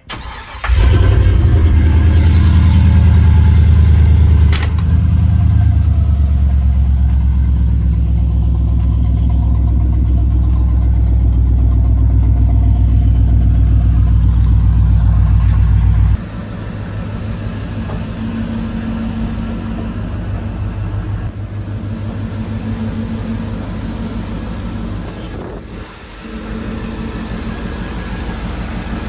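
Car engine on its newly done exhaust, coming in suddenly and running loud, with a deep steady exhaust note. About halfway through it drops abruptly to a quieter, steady idle.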